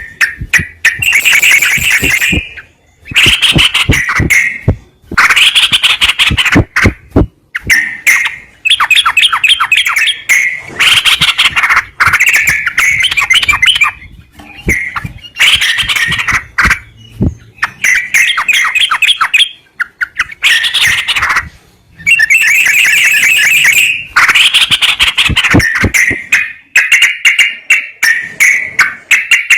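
Yellow-vented bulbul (trucukan) song: loud runs of rapid chattering notes, repeated in bursts of a second or two with short pauses between them.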